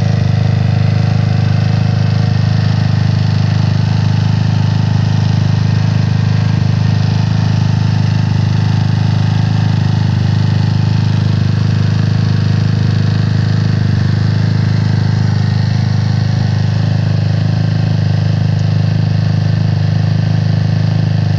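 GY6 scooter engine, bored and stroked to 193cc with a 4-valve Taida head, running steadily at an even speed on its first start after the build.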